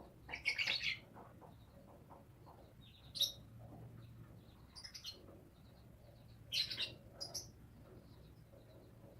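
Small bird chirping in short, high-pitched bursts, about four times: near the start, around three seconds in, around five seconds in, and a longer burst past six seconds.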